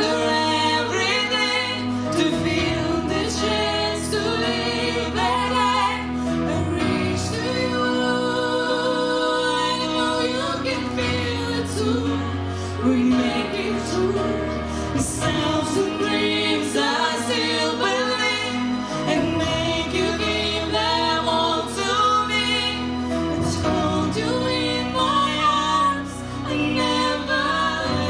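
Female voices singing a ballad duet over instrumental accompaniment.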